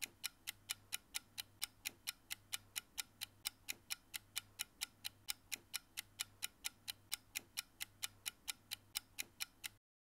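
Countdown timer ticking sound effect, even clock-like ticks at about four a second, marking the seconds left to answer a quiz question; the ticking stops near the end.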